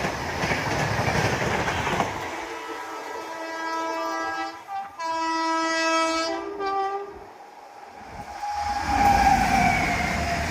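Passing Indian Railways train, its wheels rumbling and clattering over the rails. Then a train horn sounds a long two-part blast, broken briefly in the middle, and the rumble of a train rises again near the end.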